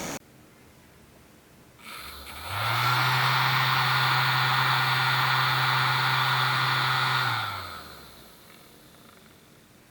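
The small electric fan of a solar mini air conditioner switching on about two seconds in, its hum rising as it spins up. It runs steadily with an airy rush, then winds down with a falling hum after about four and a half seconds.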